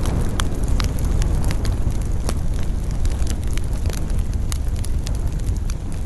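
Campfire burning, with many irregular sharp crackles and pops of burning wood over a steady low rumble of wind.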